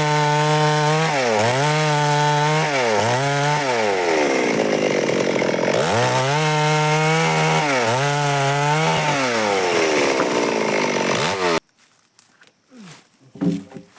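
Stihl two-stroke chainsaw running at high revs while cutting wood. Its pitch dips and recovers again and again, and sags for a longer stretch once as it bogs down in the cut. The engine cuts off suddenly well before the end, followed by a couple of faint knocks.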